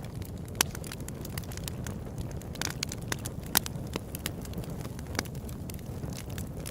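Open-air campfire burning, with a steady low rumble and irregular sharp crackles and pops, the loudest about half a second and three and a half seconds in.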